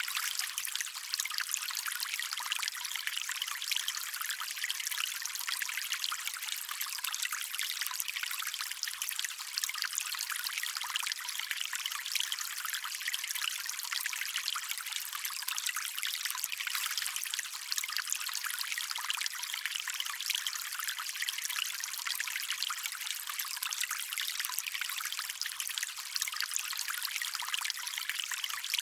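Small stream of water trickling and splashing steadily, a bright, even hiss with little low rumble.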